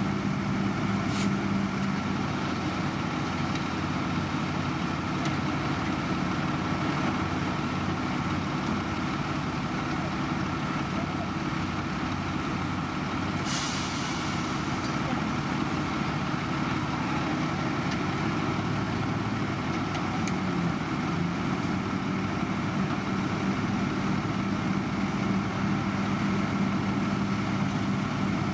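Heavy diesel road-construction machinery running steadily, with a short hiss about halfway through.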